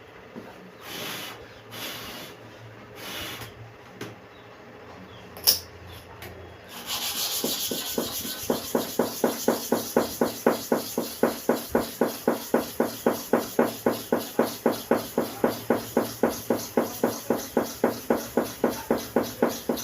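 Hair clipper blade being rubbed back and forth on a sharpening stone: a few slow strokes and a sharp click, then from about eight seconds in a steady run of quick strokes, about three a second.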